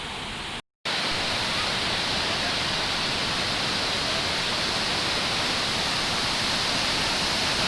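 Rushing water of a waterfall, a steady loud roar. It cuts out for a moment a little under a second in and comes back louder.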